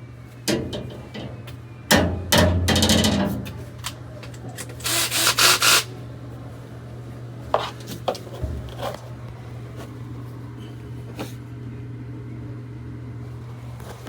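Scraping and rubbing with a few sharp knocks over a steady low hum: a burst about half a second in, a longer stretch around two to three seconds, a quick run of strokes near the middle, then scattered knocks.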